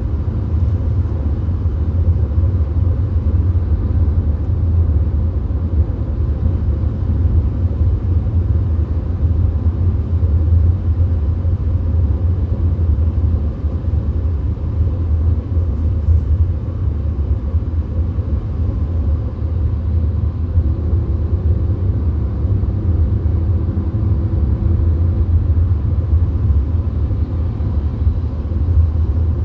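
Steady low rumble of road and engine noise heard inside a VW Golf's cabin while it cruises on the motorway. A faint hum comes in for a few seconds past the middle.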